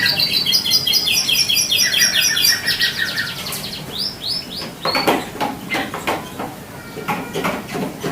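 Domestic canary singing: a fast roll of evenly repeated high notes for about three and a half seconds, then a few slurred notes and a scatter of short sharp chips.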